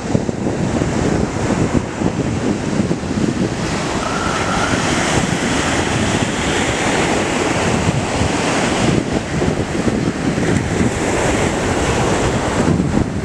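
Surf washing onto a beach, with wind buffeting the microphone in a loud, rumbling rush that rises and falls in gusts.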